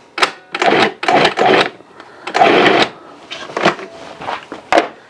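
Cuisinart 14-cup food processor pulsing, its blade chopping semi-frozen chuck roast chunks in short loud bursts, about four in the first three seconds, then a few shorter, quieter ones.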